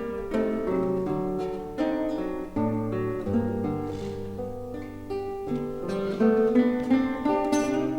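Classical guitar music: plucked melody and chords over long, held bass notes.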